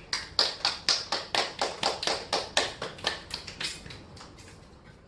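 A few people clapping in a regular rhythm, about four or five claps a second, fading out near the end.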